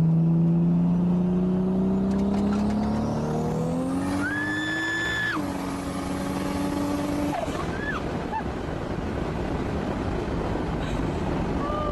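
Car engine accelerating hard, its pitch climbing steadily over about five seconds. A high squeal is held for about a second near the middle. The engine then drops back, leaving a steady rushing noise.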